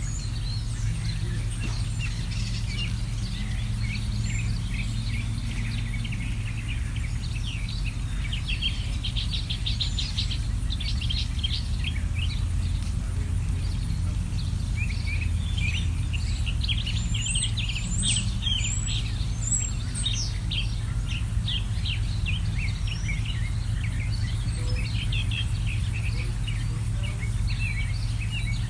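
Songbirds chirping in quick runs of short, high notes, several at once, over a steady low hum.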